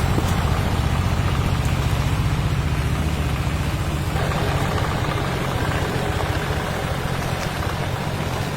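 A vehicle engine idling steadily, a low rapid pulsing that holds an even pace.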